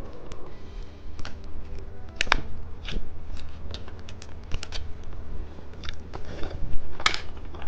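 Plastic candy packaging being handled and opened: scattered sharp clicks and crinkles, with a short rustle near the end.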